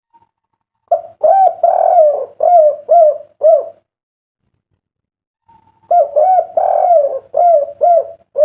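Spotted dove (derkuku) cooing two full song phrases about five seconds apart, each closing with three short clipped 'kuk' notes, the three-kuk song that keepers prize.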